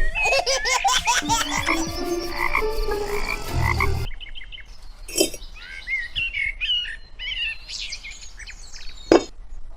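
Animal calls with a croaking, frog-like sound: a dense chorus of short chirping calls that cuts off abruptly about four seconds in, followed by sparser calls and two brief thumps.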